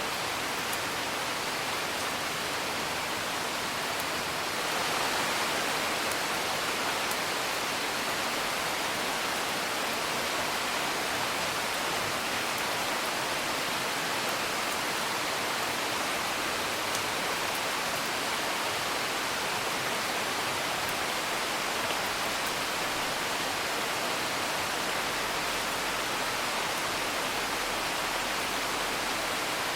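Steady rain, a dense even hiss with faint scattered crackles of a wood fire. The rain gets slightly louder about five seconds in.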